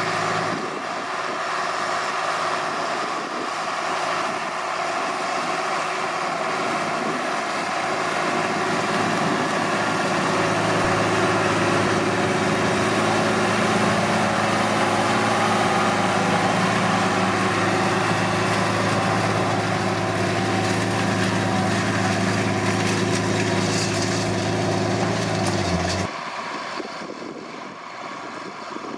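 John Deere 8400 tractor's six-cylinder diesel engine running steadily under load while pulling a disc harrow, with a steady engine drone throughout. About three seconds before the end it cuts off abruptly to a fainter sound.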